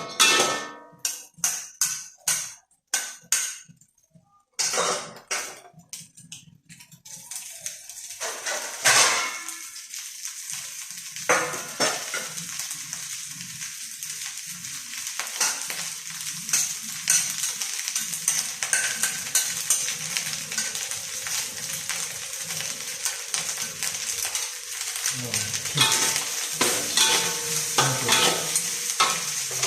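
Metal utensils clinking and knocking against a pot and dishes for several seconds. Then food starts sizzling in a hot frying pan while a spatula scrapes and stirs through it, and the scraping grows busier near the end.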